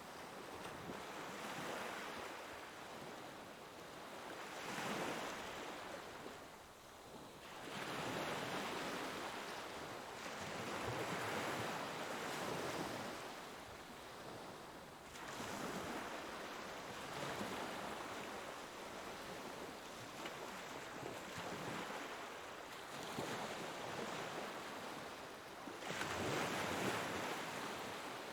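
Ocean waves breaking and washing ashore, the surf noise rising and falling as a wave breaks every few seconds, with the strongest surge near the end.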